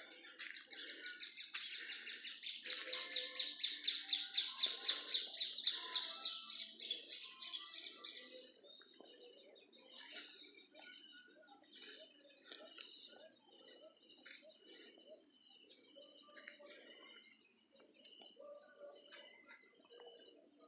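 A songbird singing a fast, even run of high chirps, about six a second, that grows louder and then fades out about eight seconds in. A steady thin high whine continues underneath throughout.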